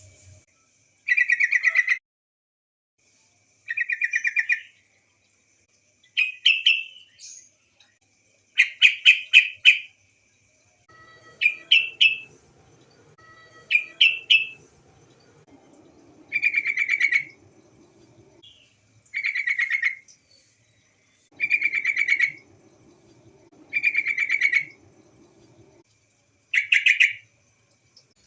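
Female yellow-vented bulbul (trucukan) giving short chattering calls, about a second each and repeated every two to three seconds, used as a lure call to get other trucukan singing.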